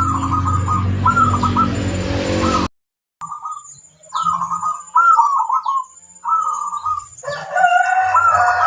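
Perkutut (zebra doves) cooing in their rolling, repeated song phrases, several in turn. A low hum under the opening cuts out with the sound about three seconds in. A rooster crows over the doves near the end.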